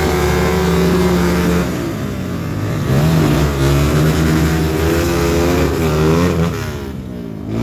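Off-road trail motorcycle engines revving, the pitch rising and falling repeatedly about halfway through.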